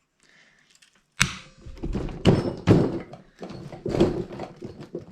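Metal knocking and clunking: a sharp knock about a second in, then a run of irregular clunks and scrapes as tools work at a broken piece stuck in an old engine's exhaust.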